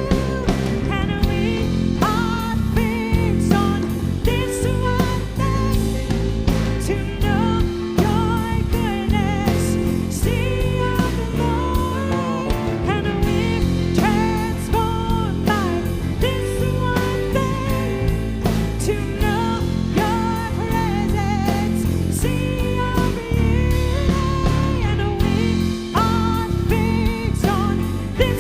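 Worship song performed by a band: singing over guitar and a drum kit with a steady beat.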